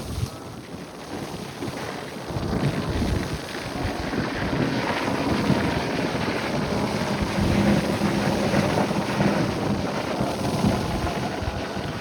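Strong wind buffeting the microphone over open water, with the rush of waves and boat noise beneath, growing louder about two seconds in.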